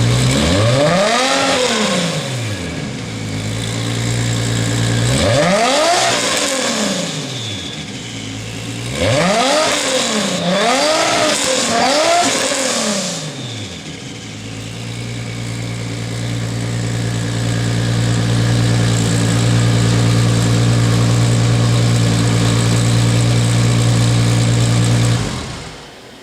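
1998 Toyota Supra Turbo's 2JZ-GTE inline-six idling through an HKS titanium racing exhaust with the silencer fitted, blipped five times: one rev near the start, another about five seconds in, then three quick revs in a row. It settles back to a steady idle and is switched off shortly before the end.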